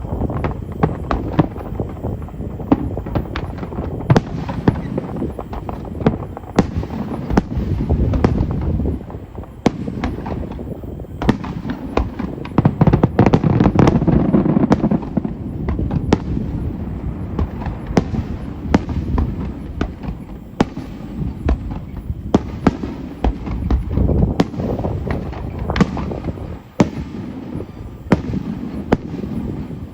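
Aerial firework shells bursting in quick succession, a mix of deep booms and sharp cracks, with a dense, loud barrage about halfway through.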